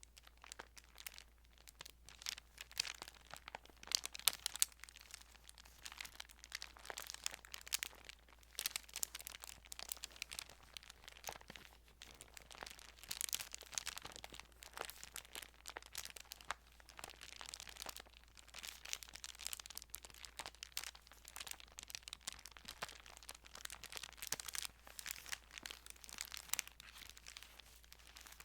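Thin Bible pages rustling and crinkling as they are handled and turned, in a dense run of small crackles close to the microphone.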